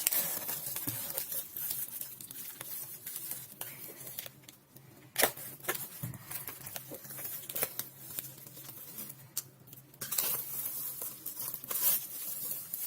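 Plastic packaging being torn open and crinkled by hand, a run of rustling with a few sharp snaps, the clearest about five seconds in.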